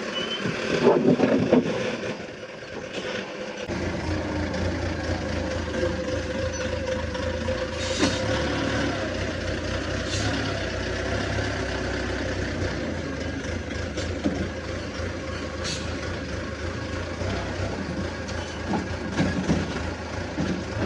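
Wheel loader's diesel engine running steadily while it loads rubble onto a dump truck, with a few short, sharp hissing or knocking noises along the way.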